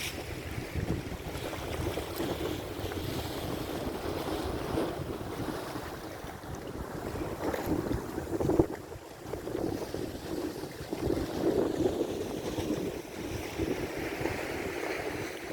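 Choppy lake waves splashing and washing in surges, with wind buffeting the microphone as a low rumble. The loudest moment is a sharper splash about eight and a half seconds in.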